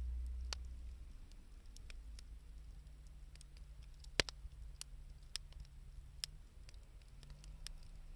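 Wood fire crackling: scattered sharp snaps and pops of burning scrap 2×4 lumber and found wood, with one louder pop about four seconds in.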